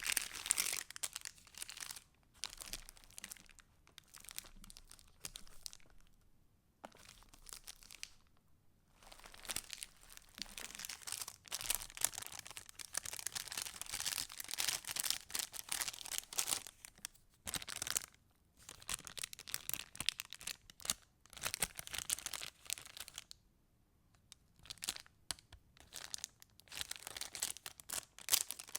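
Paper of a handmade junk journal being handled and flipped through: irregular crinkling and rustling of pages and paper pieces in bursts, with short pauses between.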